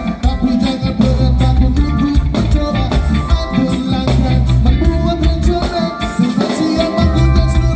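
Live reggae band playing, with a heavy bass line, drums and a shaker, guitar and held keyboard or vocal notes.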